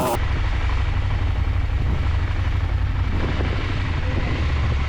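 KTM 890 Adventure's parallel-twin engine running with a steady low rumble, mixed with wind noise over the microphone; it starts abruptly a moment in, as the sound before it cuts off.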